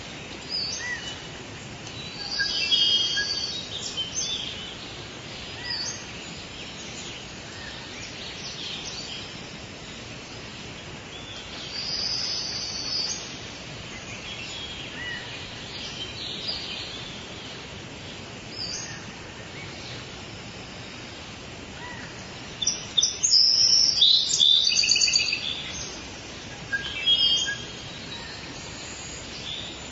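Birds calling and chirping over a steady hiss of forest background, in scattered bursts of short high calls, with the loudest flurry of overlapping calls about three quarters of the way through.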